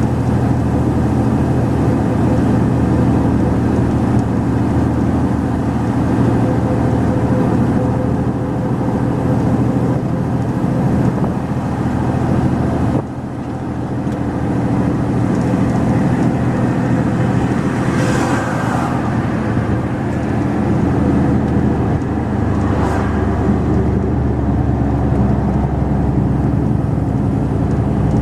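Mercedes-Benz Actros 2546 truck's diesel engine running steadily on the move. About halfway through the engine sound drops suddenly and then builds back up. Two short hisses come later on.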